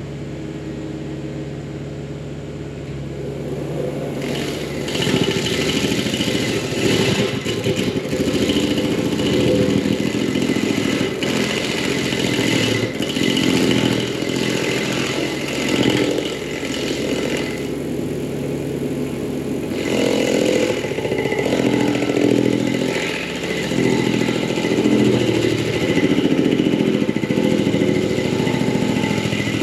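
Blue Diamond standard-flow hydraulic stump grinder on a skid steer, the engine running under load as the grinder wheel cuts into a stump. The grinding noise comes in about four seconds in, stops for a couple of seconds about two-thirds of the way through, then starts again.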